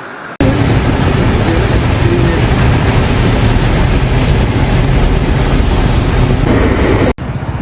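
Floodwater rushing loudly, with wind buffeting the microphone. It cuts in suddenly about half a second in and cuts off suddenly near the end.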